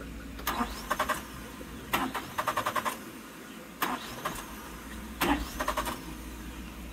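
1996 Suzuki Every van's three-cylinder engine cranked on the starter in four short bursts, each one trying to catch without starting. It now has fuel pressure and really wants to run; the owner thinks it may need some choke.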